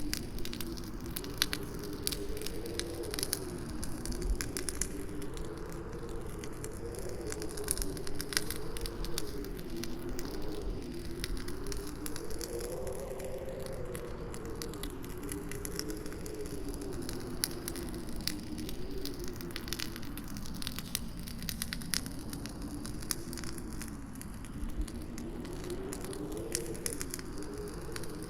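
Campfire crackling steadily with frequent sharp pops and snaps, over a howling wind whose low, hollow tone slowly wavers up and down in pitch. The whole sound is treated with an 8D audio effect that sweeps it around the listener.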